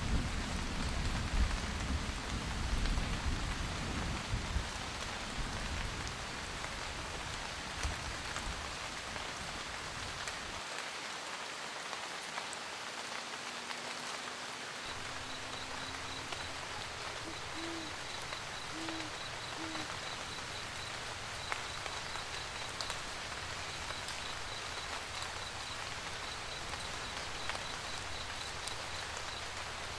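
Steady rain pattering on a camper van roof, with a low thunder rumble dying away over the first few seconds. A little past the middle an owl hoots three times, while a faint high chirping repeats steadily in the background.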